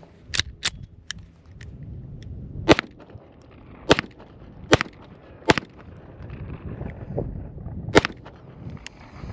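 Springfield Armory Prodigy 9mm pistol firing a string of sharp shots at uneven intervals. Two shots come quickly, then a pause of about two seconds, then four shots spaced under a second apart and one more after a longer gap near the end.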